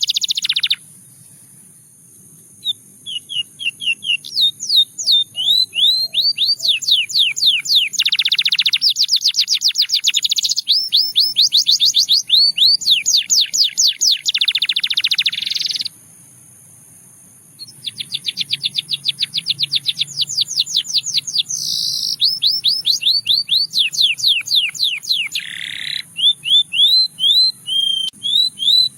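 Russian singing canary singing long runs of rapid repeated rising notes and fast trills, with brief pauses about a second in and again about halfway through.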